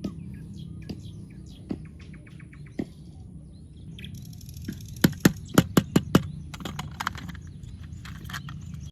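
Scattered small clicks and taps over a low hum, with a quick run of about six sharp, loud clicks about five seconds in.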